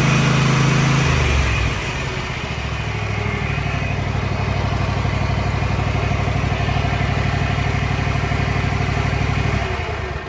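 Two-cylinder Kohler engine of a Craftsman G7400 garden tractor running. It runs at a higher speed, drops to a lower steady speed about a second and a half in, and begins to wind down near the end.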